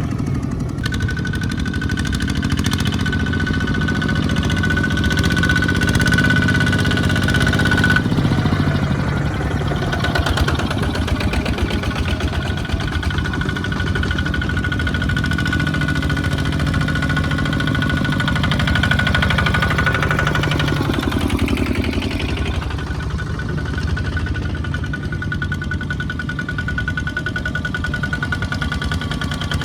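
Small farm tractor engines running and hauling through a muddy field, with a rapid knocking chug and a steady high whine over it. A little past twenty seconds in, the engine note drops and then climbs back.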